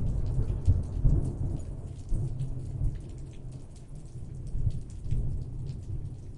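Steady rain with a low rumble of rolling thunder, loudest in the first second or so, fading, then swelling again about five seconds in.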